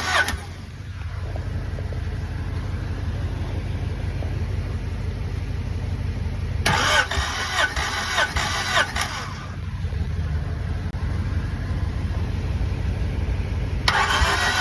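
Honda D16A inline-four being cranked over by its starter for a compression test, in bursts of a couple of seconds each with a rhythmic, pulsing chug as the cylinders come up on compression; one burst ends just after the start, another runs from about the middle for two to three seconds, and a third begins near the end. Between the bursts a steady low hum carries on.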